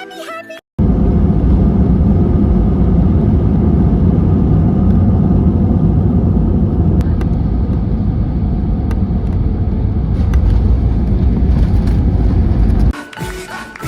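Loud, steady vehicle rumble, mostly low-pitched, that starts abruptly about a second in and cuts off sharply near the end.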